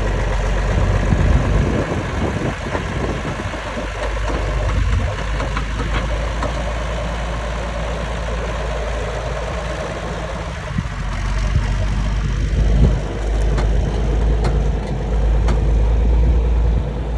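1977 John Deere 4430 tractor's turbocharged six-cylinder diesel engine idling with a steady low drone.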